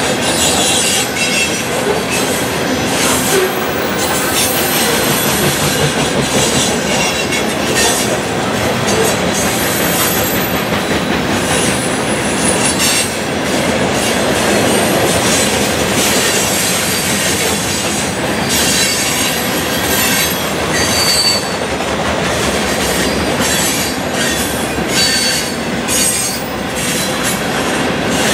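Covered hopper cars of a freight grain train rolling past: a steady rumble and clatter of steel wheels on rail, with short high-pitched wheel squeals now and then.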